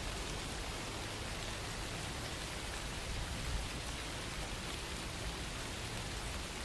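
Steady rain falling, a continuous hiss with faint scattered drop ticks.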